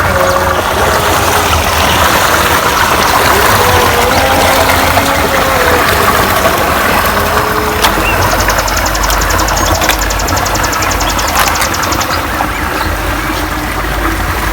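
A truck engine running steadily with a low rumble, and a fast, even high ticking from about the middle of the sound for some four seconds.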